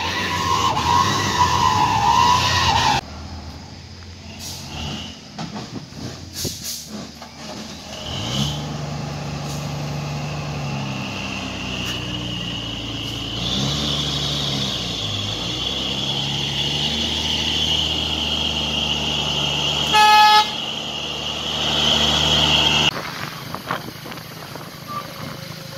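Heavy truck's diesel engine labouring under load on a steep climb, with a high whine over the engine note, interrupted by a short loud horn blast. At the start, before the clips cut over, there is a different wavering horn-like tone.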